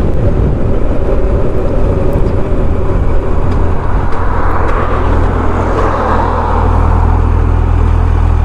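Suzuki GSX1250FA's inline-four engine running under way, with wind and road noise at first. About halfway through it settles into a steadier low engine note, as when the bike slows down.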